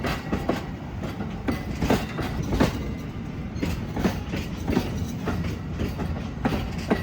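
Amtrak passenger train backing slowly past: a steady low rumble of the rolling cars with irregular clicks and knocks of the wheels over rail joints.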